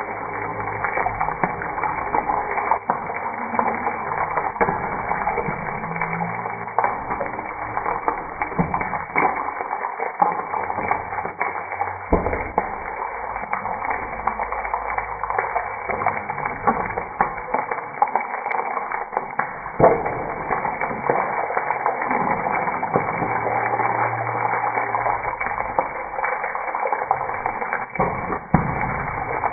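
Whole boiled eggs frying in hot oil in a nonstick pan: a steady sizzle with scattered crackles, and the spatula scraping and knocking as the eggs are rolled over.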